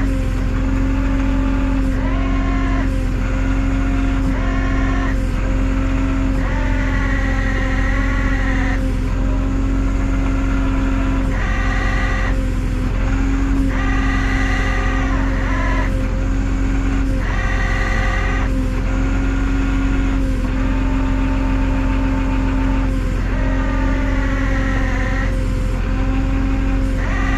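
Tow truck's engine running steadily with the PTO engaged for the winch, a constant loud hum. Wavering higher tones come and go over it every second or two.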